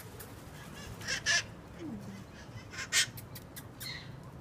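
Wild conure parrots giving harsh screeching squawks: a quick pair about a second in and another loud one near three seconds.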